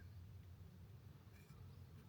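Near silence: a faint low outdoor rumble, with one faint short bird chirp about one and a half seconds in.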